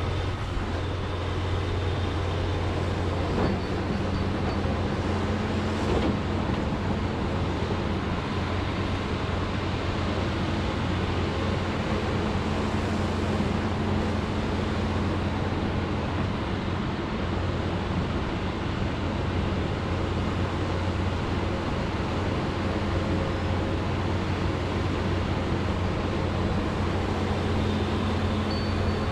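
John Deere 210G excavator's diesel engine running steadily under work, a constant low drone, with a couple of short knocks in the first several seconds.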